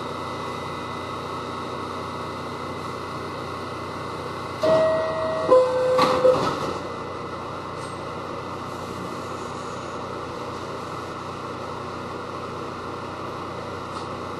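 Steady hum inside a Westinghouse R68 subway car. About five seconds in, the car's two-note descending chime sounds, with a knock as it ends.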